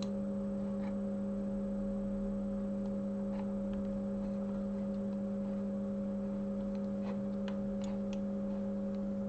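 Steady electrical mains hum: a low, unchanging tone with a few fainter higher overtones. Faint, light clicks sound now and then.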